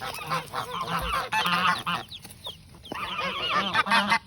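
Mother hen with newly hatched chicks, calling in rapid runs of short, wavering clucks, with a brief lull partway through.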